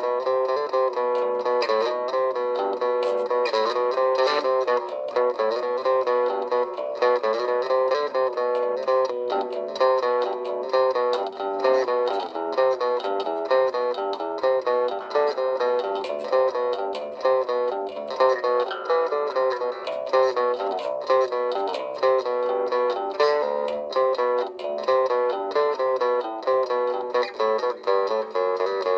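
Music played on a plucked string instrument: a steady stream of picked notes.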